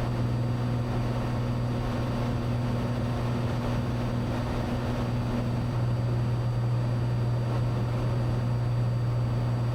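Cessna 182 piston engine and propeller droning steadily in cruise, with one higher tone in the drone dropping out about six seconds in.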